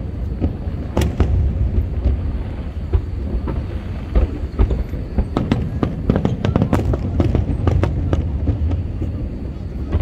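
Aerial fireworks going off: a run of sharp bangs and crackling pops, coming thickest a little past the middle, over a steady low rumble.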